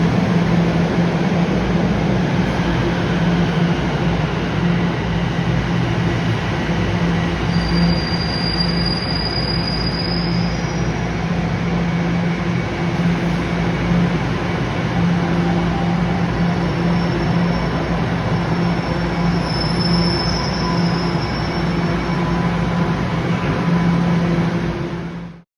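TTC Line 1 subway train running with a steady rumble and motor hum, its wheels squealing briefly twice. The sound cuts off suddenly near the end.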